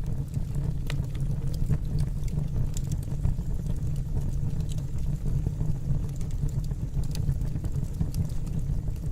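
Fire burning in a fireplace: a steady low rumble with small crackles and pops scattered irregularly through it.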